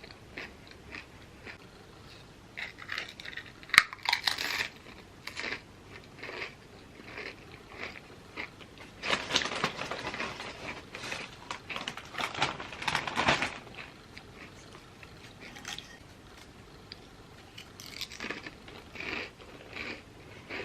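A person biting and chewing crunchy chips, with irregular crunches. There is one sharp bite about four seconds in and a dense run of crunching through the middle.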